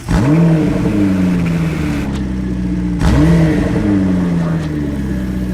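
Mercedes-AMG S 63 Coupe's twin-turbo V8 breathing through an Akrapovič exhaust, revved twice: each time the pitch jumps up quickly, then falls slowly as the revs drop back. The first rev comes right at the start, the second about three seconds in.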